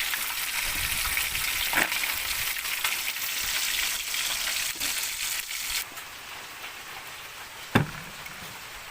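Tilapia sizzling as it fries in hot oil, the sizzle cutting off abruptly about six seconds in. A single sharp knock near the end.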